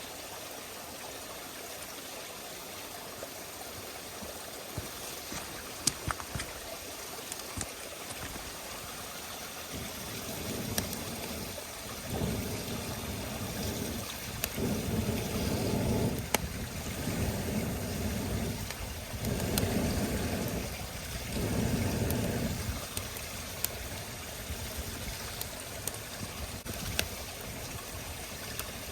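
Wood campfire burning, crackling with scattered sharp pops over a steady hiss. Partway through, a louder low rushing comes and goes in several surges.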